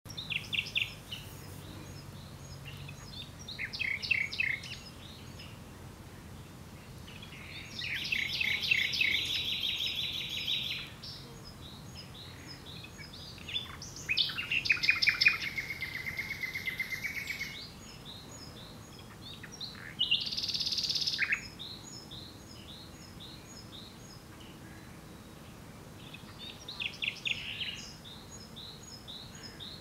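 Common nightingale singing in separate phrases a few seconds apart, each a burst of rapid repeated notes and trills; one phrase ends in a long whistled note. Fainter short high notes repeat about twice a second in the background.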